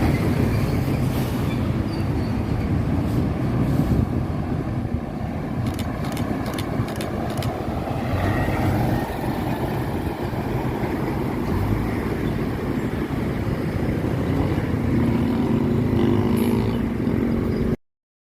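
Road traffic with heavy trucks going by: a continuous rumble of engines and tyres, with a few sharp clicks a few seconds in. A truck's engine drone rises out of it near the end. The sound then cuts off suddenly.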